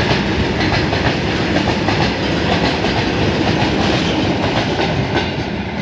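Train wheels clattering over the rail joints as a WAG 9 electric locomotive-hauled train runs past, a loud steady rumble with rapid clicks.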